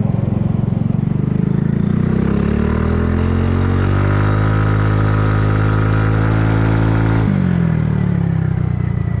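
Kymco People 250 scooter's single-cylinder engine, heard from the saddle, pulling away with its note rising for a couple of seconds. It holds a steady pitch, then about seven seconds in the throttle is shut and the note drops suddenly and winds down. Its exhaust leaks have been patched with high-heat epoxy.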